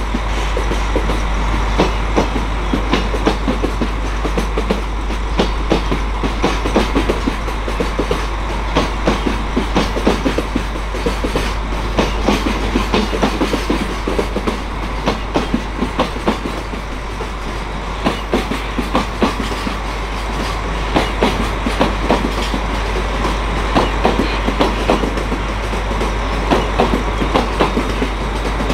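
Long container freight train rolling past, its wagon wheels clacking over the rail joints in a continuous run of quick clicks over a steady rolling rumble.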